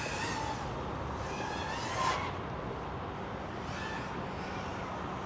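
5-inch FPV quadcopter with EMAX ECO II 2306 motors flying at a distance, its motor whine rising and falling in pitch every couple of seconds over a steady background rumble.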